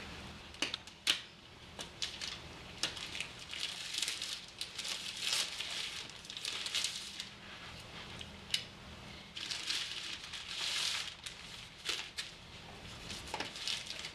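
Plastic protective covering crinkling and rustling in irregular bursts as it is cut and pulled off a robot vacuum's base, with scattered sharp clicks.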